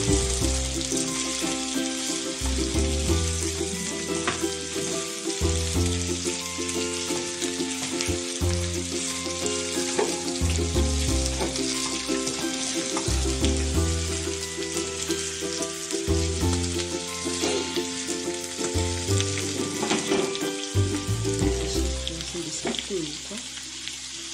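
Potato chunks pan-frying in cooking oil with a steady sizzle, turned and stirred with a wooden spatula. Background music plays over it.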